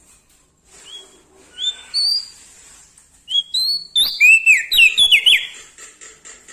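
Prenjak daun singing clear whistled notes: a few separate notes, then a fast run of sliding, partly falling whistles that is loudest about four to five seconds in.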